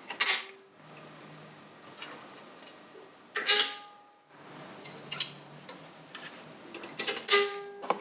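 Metal exhaust pipes clanking as their slip joints are pushed and worked together: three louder knocks, each leaving a short metallic ring, about every three and a half seconds, with lighter clicks and handling noise between.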